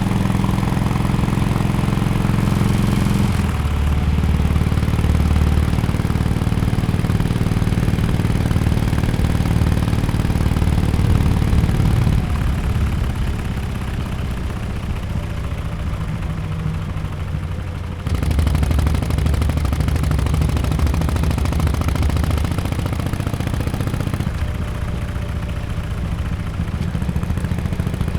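2017 Harley-Davidson XL1200X Forty-Eight's air-cooled 1200 cc V-twin running through an aftermarket Bell's Performance exhaust at low revs. The engine note steps down about three seconds in, falls quieter around twelve seconds, and comes back louder suddenly about eighteen seconds in.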